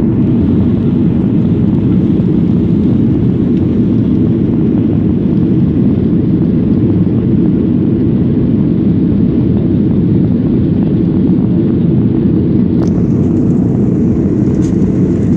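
Jet airliner cabin noise: a steady, loud rumble of engines and airflow, with a couple of faint clicks near the end.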